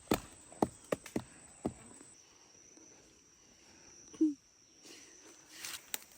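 An insect holding a steady high-pitched tone that drops to a lower pitch about two seconds in, over scattered light knocks.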